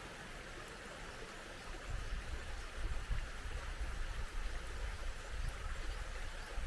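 Small mountain stream rushing steadily. From about two seconds in, a low, uneven rumble joins it.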